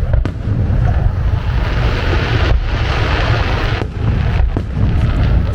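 Aerial fireworks going off in quick succession: continuous low booms, a spell of hissing crackle about halfway through, and a few sharp pops.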